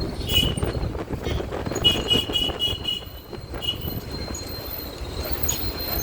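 Street traffic rumble with a vehicle horn beeping: one short beep, then a run of about five quick beeps about two seconds in, and another short beep a little later.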